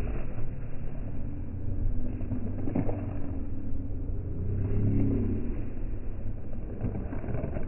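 Low, steady rumble of a diesel drag car's engine.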